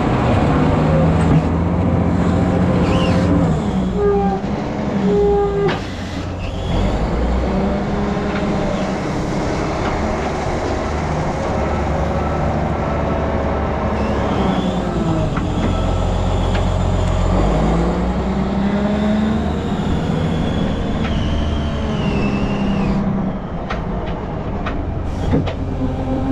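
Heavy diesel engine running under load, its pitch rising and falling several times as it revs up and eases off.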